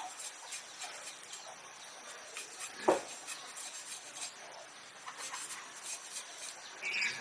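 Light clinks, ticks and rubbing of small objects being handled, with one louder knock about three seconds in.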